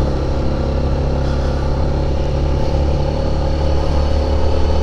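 Motorcycle engine running steadily, with an even low note.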